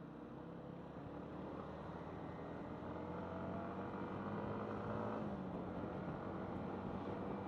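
Yamaha MT-15's single-cylinder engine running under way, its note climbing gradually and then easing back a little past the middle.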